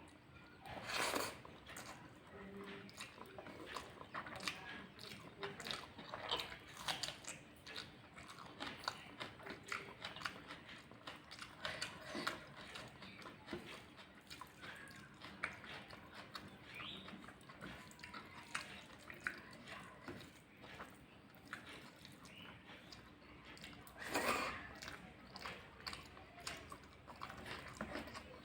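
Close-miked chewing and mouth sounds of someone eating rice with cauliflower curry: many soft wet clicks and smacks, with two louder bursts, one about a second in and one near the end.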